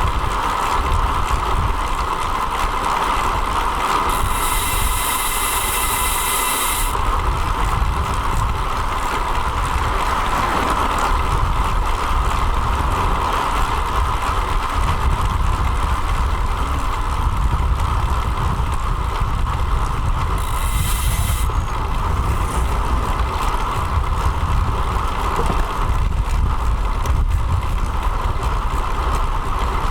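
Steady wind rumble and road noise on a bike-mounted action camera during a road bike ride. Two bursts of high hiss break in, one about four seconds in lasting roughly three seconds, and a shorter one about twenty seconds in.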